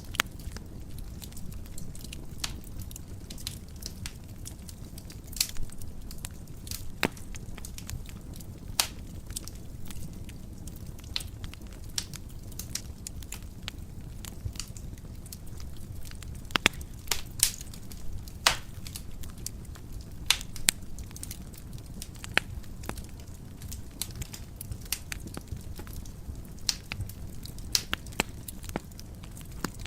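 Wood fire burning in a fireplace: a steady low rumble under frequent irregular crackles and sharp pops.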